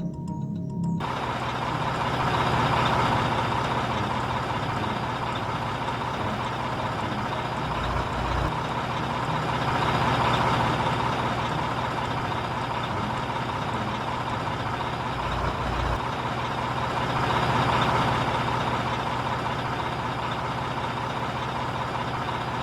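Small electric motor of a toy vehicle running steadily with a whirring noise and a low hum, swelling louder about every seven or eight seconds.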